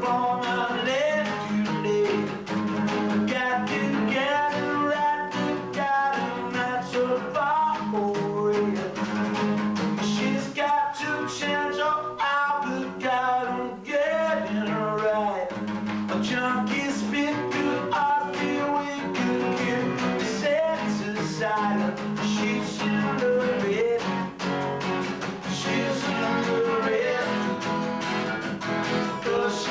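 Rehearsal performance of an original song: a singing voice with guitar accompaniment, recorded through a basic VHS camcorder microphone.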